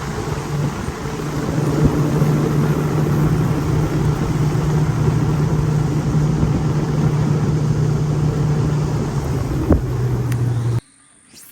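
Boat motor running steadily under way, a low droning hum over rushing noise; it cuts off abruptly near the end.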